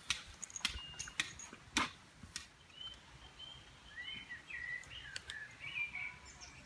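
A songbird singing a short series of high chirping, wavering notes, over a faint outdoor background. It is preceded by a few sharp knocks in the first two seconds.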